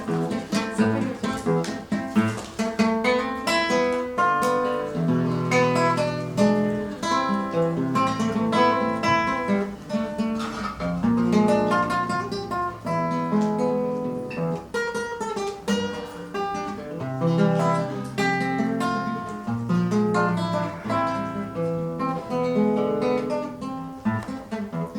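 Acoustic guitar playing an instrumental introduction to a song: a plucked melody over bass notes, with some strummed chords.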